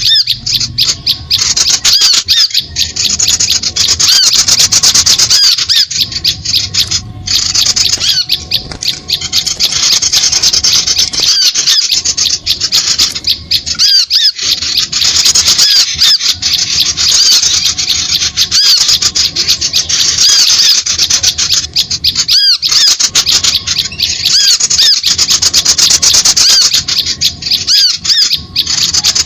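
Dense, rapid high-pitched chattering and chirping of small birds, played as a continuous lure call for trapping birds, with brief breaks a few times.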